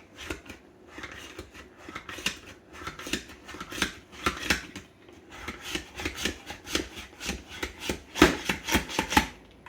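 A block of Colby Jack cheese pushed down repeatedly across a handheld adjustable shredder: a run of uneven rasping strokes, about two a second, with a short lull about halfway through.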